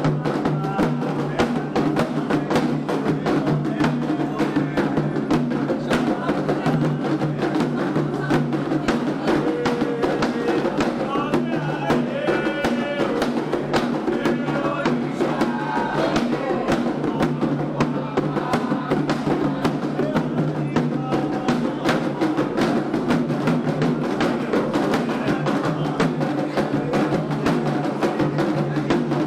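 Candomblé ritual drumming: hand drums and sharp struck percussion in a fast, steady rhythm, with voices singing a chant over it, most clearly about halfway through.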